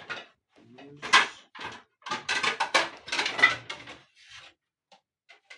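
Dishes and serving utensils clattering: a busy run of knocks and scrapes, loudest about a second in and again near three and a half seconds.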